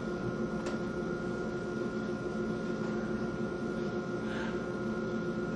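Steady room tone: an even hiss with a constant electrical hum, and one faint click under a second in.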